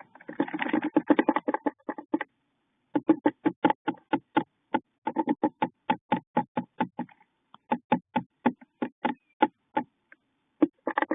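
Rapid knocking and tapping inside a wooden bird nest box, about five knocks a second, in runs separated by short pauses.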